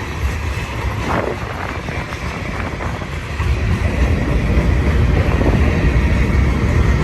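Freight cars of a long mixed freight train rolling past on the rails, a steady low rumble, with wind buffeting the microphone. It grows louder about halfway through.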